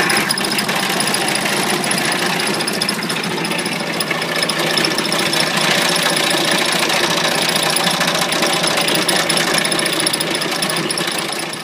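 Commercial bread slicer running loudly and steadily, its row of reciprocating blades cutting through a loaf; the machine shuts off at the very end.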